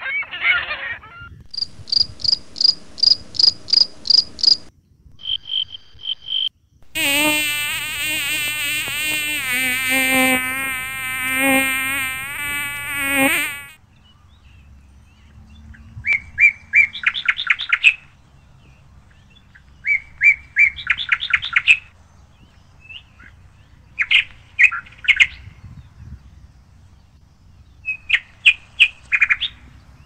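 Bird calls: a fast run of high chirps, then a loud wavering call with many overtones lasting about six seconds, followed by a phrase of quick chirping notes repeated four times, roughly every four seconds.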